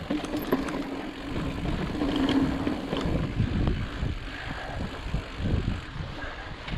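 Ibis Ripley mountain bike rolling over rock: tyre and drivetrain noise with scattered knocks and rattles, and wind on the microphone. A steady low hum runs through the first couple of seconds.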